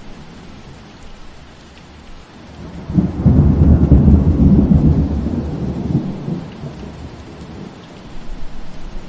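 Steady rain falling, with a roll of thunder that breaks in about three seconds in, rumbles low and loud for about three seconds, then fades.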